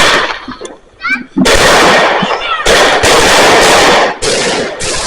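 Consumer firework battery (cake) firing: a sharp bang at the start, then a dense stretch of crackling reports from about one and a half seconds in to about four seconds, followed by separate shots about twice a second.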